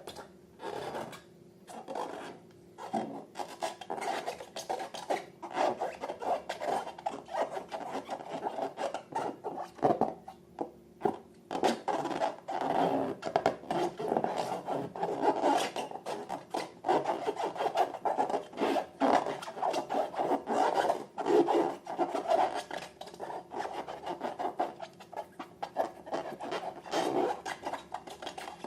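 Slime being worked and mixed, giving a continuous stream of sticky crackles and rubbing, squelching noises.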